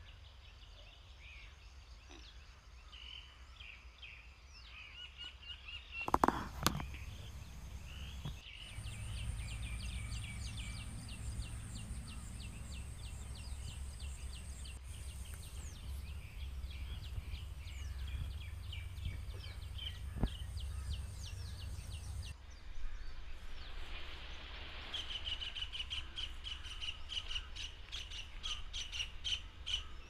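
Small birds chirping in quick repeated high notes over a steady low rumble, with a brief louder sound about six seconds in.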